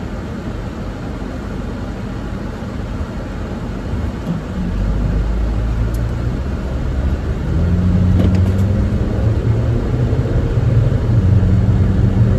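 Car engine and road rumble heard from inside the cabin while driving, a low steady drone that grows louder about four and a half seconds in and again about halfway through.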